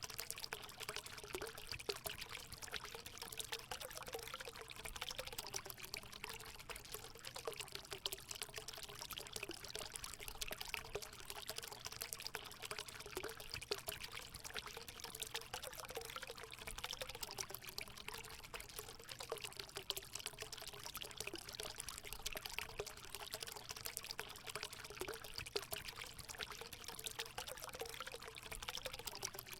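Water pouring and splashing steadily into a hot spring pool, a continuous trickling flow.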